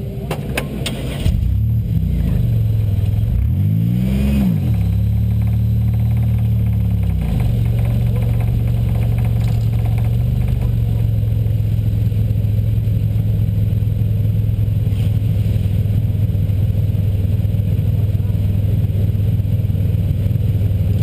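A 2000 Buick LeSabre's 3.8-litre V6 starting: a few clicks, then it catches about a second in. It is blipped once, rising and falling in pitch, then settles into a steady idle.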